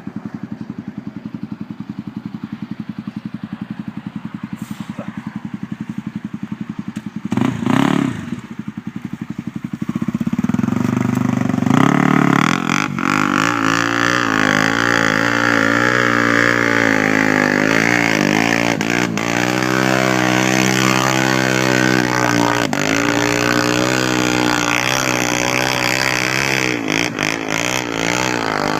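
Motorcycle engine ticking over with an even low pulse for about ten seconds, with a brief blip near eight seconds. It then revs up and runs at higher revs to the end, its pitch rising and falling.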